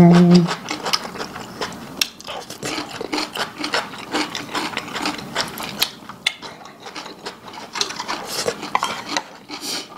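Close-up eating sounds: chewing and crunching with many quick, irregular clicks and wet smacks, as crisp cucumber salad and braised pork backbone meat are eaten.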